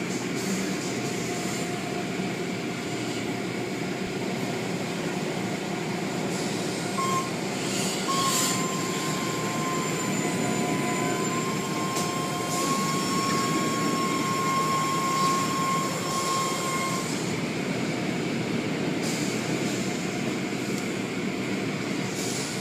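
Automatic car wash machinery running: a steady spraying, mechanical rush, with a steady whine that starts about six seconds in and stops about ten seconds later.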